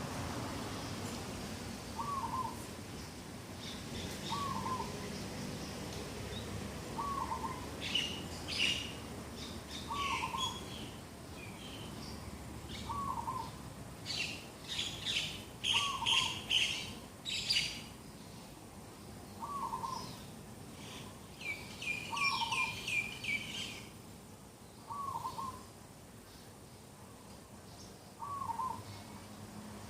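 Morning birdsong. One bird repeats a short, low call about every two to three seconds, while other birds chirp and twitter higher up in bursts, busiest in the middle.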